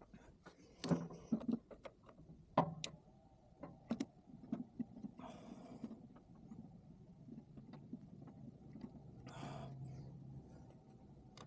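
Scattered clicks and knocks of tools and parts being handled on a Volkswagen Beetle engine, loudest about one and two and a half seconds in, with two short hisses and a low steady hum joining near the end.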